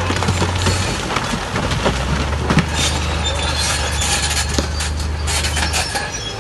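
Bulldozer's diesel engine running steadily under a clatter of metal tracks and scraping rock, with scattered knocks and clicks; the engine note drops lower about two seconds in.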